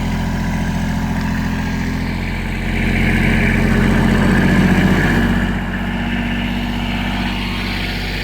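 Kubota tractor's diesel engine running steadily, getting louder for about three seconds in the middle before settling back.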